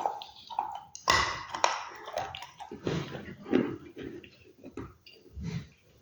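Close-miked eating of crunchy food: a loud crunching bite about a second in, then irregular crunching and wet chewing that thins out toward the end.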